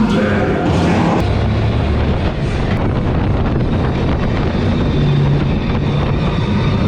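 Loud, steady rumbling noise of an amusement-park ride: the ride vehicle running among its sound effects.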